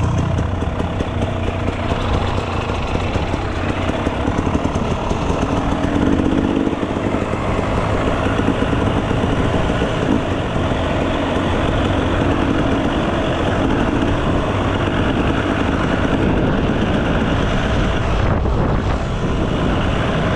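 Enduro dirt bike engine running as the bike is ridden, a loud steady sound whose pitch shifts now and then.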